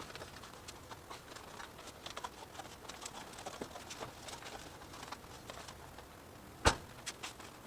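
Light scattered clicks and rustles of hands working, with one sharp knock about two-thirds of the way in and two lighter knocks just after it.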